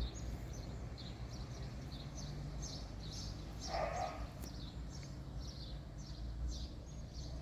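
Small birds chirping over and over in short, high, falling notes, about three a second, with one short lower call about four seconds in and a steady low rumble underneath.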